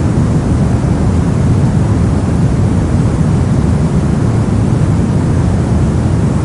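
Steady soft white noise, deep and muffled, with most of its weight in the low end. It holds constant with no changes.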